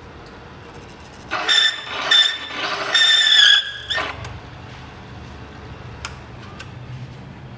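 Motorcycle being started: a high-pitched mechanical whine in three spurts, the last about a second long, then the engine running with a low steady hum.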